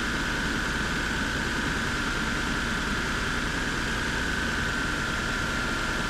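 Car engine idling steadily with the air-conditioning system running, a steady whine over the engine noise.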